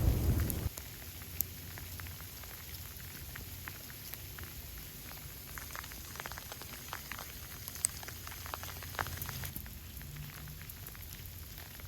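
Sleet ticking and pattering irregularly on surfaces, with a steady low rumble underneath.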